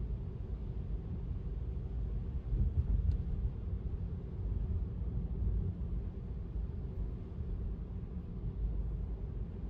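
Steady low road rumble of an electric car (Tesla) driving on wet pavement, with no engine sound, swelling slightly about two and a half seconds in. There is a faint click about three seconds in.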